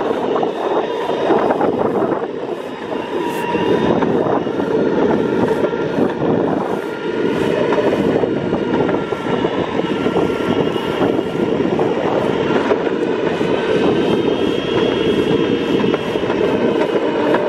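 Longboard wheels rolling on pavement: a steady, continuous rumble.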